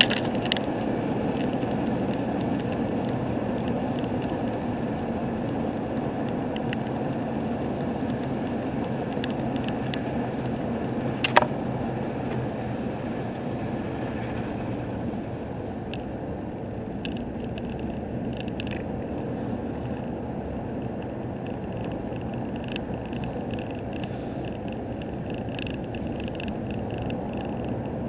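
Steady road and engine noise of a vehicle travelling on the highway, with one sharp click about eleven seconds in and faint scattered ticks in the second half.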